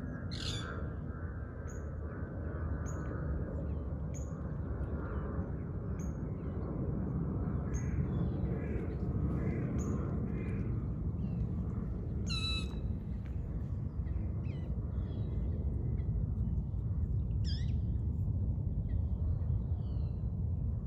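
Wild birds calling: a short high note repeated about once a second for the first several seconds, scattered other calls, and one louder, harsher call about twelve seconds in, over a steady low rumble.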